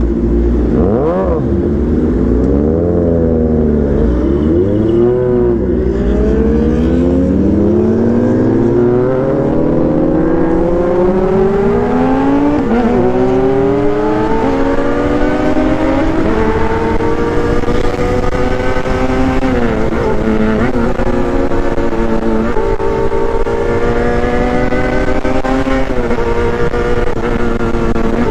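Honda CB400 Super Four's four-cylinder four-stroke engine accelerating hard through the gears. Its pitch climbs and drops sharply at each of several upshifts, then holds at a steady high pitch under speed.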